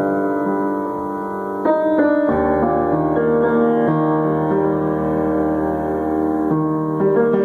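Piano playing slow, held chords with no singing; a new chord with a deep bass note comes in about two seconds in, and the chord changes again near the end.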